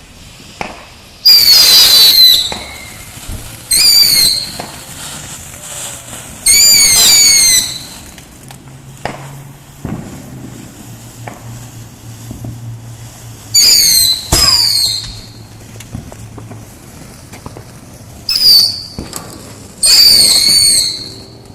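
Whistling firework going off in a series of six shrill whistles, each about a second long with a wavering pitch, with a few sharp pops between them.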